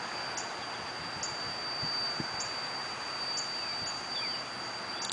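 A commercial vacuum machine running steadily, heard from a neighbouring property: a constant hissing rush with a steady high-pitched whine over it.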